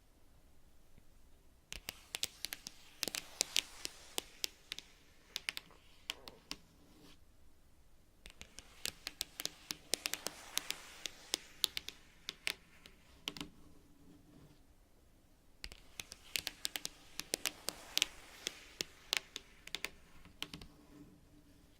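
Long natural fingernails tapping and scratching rapidly on cards. The taps come in three bursts of quick clicks, each about five seconds long, with short pauses between.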